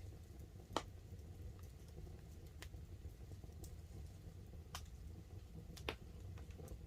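Wood campfire crackling: a handful of sharp pops, the loudest about a second in and another near the end, over a steady low rush, with light rain pattering on the tarp overhead.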